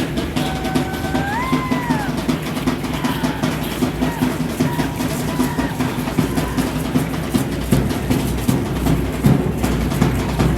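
Steady drumming for an Aztec dance. About half a second in, a held tone sounds, rises in pitch and drops away by two seconds.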